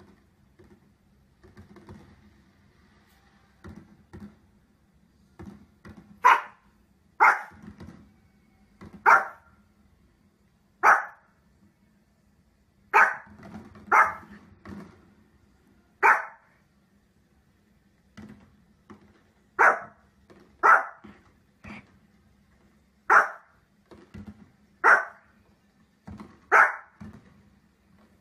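A small fluffy dog barking in single sharp barks, more than a dozen of them, spaced a second or two apart and starting about six seconds in.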